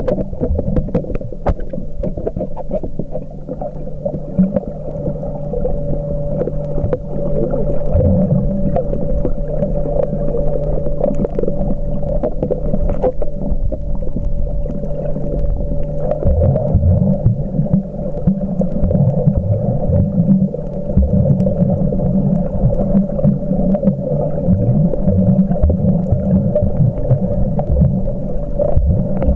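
Muffled underwater sound picked up by a camcorder while snorkeling: a low, churning rumble of water movement with a steady hum. Partway through the lower hum stops and the rumble turns rougher.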